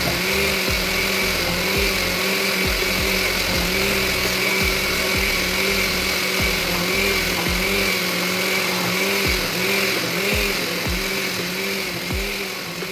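Countertop blender running steadily at a constant pitch, blending chunks of fruit in water into juice.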